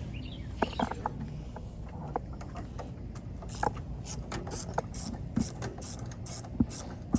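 Scattered light clicks and taps of hand tools and small parts during work on a car's ignition, with a quicker run of sharp ticks from about halfway in, over a steady low hum.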